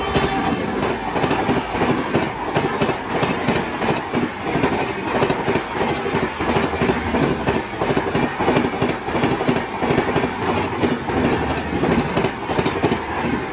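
Red LHB passenger coaches of an express train rushing past at speed, wheels clattering rapidly over rail joints in a steady loud rush. The last of the locomotive's horn dies away at the very start.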